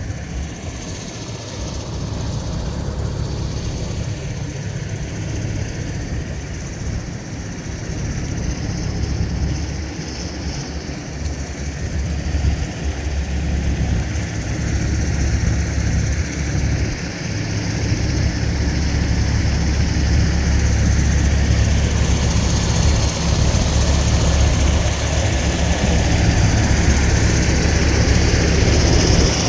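Low, steady engine rumble of a heavy vehicle, growing louder through the second half.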